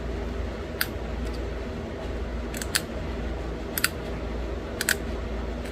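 Pressure flaking a small stone arrow point: a series of sharp clicks as tiny flakes snap off its edge, several coming in quick pairs, over a steady low hum.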